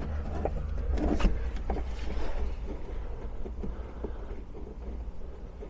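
Light scattered clicks and knocks of a nut being fitted by hand onto a rear shock absorber mounting bolt in a cramped spot, over a steady low rumble.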